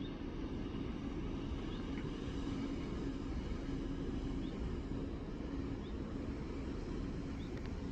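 Steady low drone with a continuous hum, like a distant engine, with a few faint short high chirps above it.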